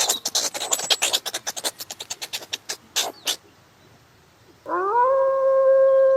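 A rapid run of sharp clicks that thins out and stops, then after a short pause a canine begins a long, steady howl, rising at the start and then held on one pitch.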